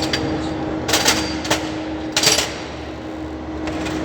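Toyota Yaris engine running with a steady hum and irregular sharp rattling knocks, the strange noise traced to a faulty alternator, first mistaken for a VVT-i gear rattle.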